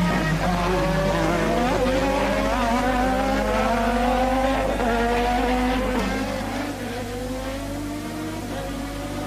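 Formula One race car engine at high revs, its pitch climbing steadily as it accelerates, with a brief break about two seconds in. It falls noticeably quieter about six seconds in.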